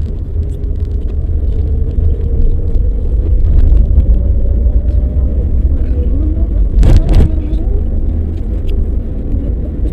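Car driving, heard from inside the cabin: a steady deep rumble of road and engine noise, with a short double knock about seven seconds in.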